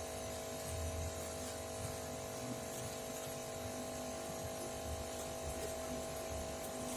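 A steady electrical hum with a fixed tone and an uneven low rumble beneath it.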